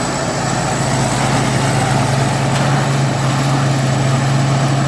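Engine of a new Thai Singh Yont combine harvester running at a steady, even pitch with a low drone, the sound onlookers call sweet and take as the builder's signature.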